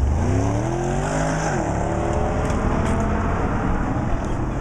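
BMW E92 M3's V8 accelerating hard, its note rising in pitch, dipping briefly about one and a half seconds in, then climbing again before fading.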